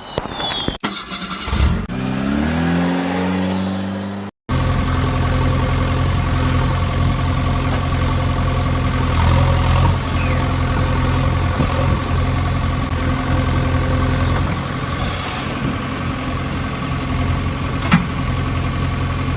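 A vehicle engine starting and revving up, then, after a brief cut, running steadily at a low, even pitch. A single click comes near the end.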